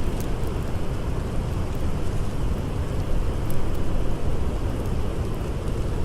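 Blizzard wind blowing in a steady low rush, with a few faint crackles from a campfire.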